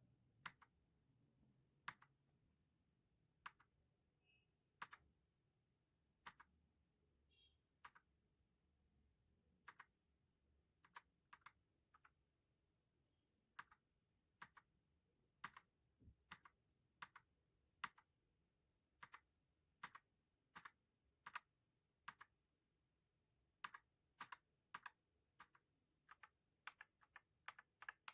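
Mechanical keyboard keystrokes on Akko CS Lavender Purple tactile switches under PBT pudding keycaps. The keys are pressed one at a time, spaced out at first and coming quicker near the end.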